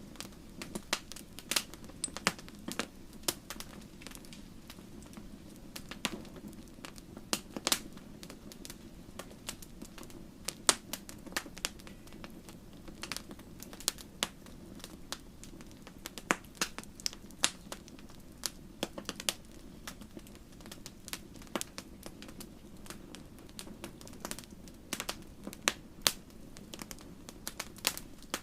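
Wood fire crackling in a fireplace: irregular sharp snaps and pops, a few a second, over a steady low rushing hiss.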